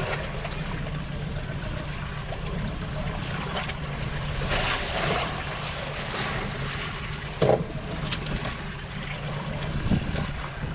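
Wind and sea noise on a small open fishing boat, over a steady low motor hum, with a single knock about seven and a half seconds in.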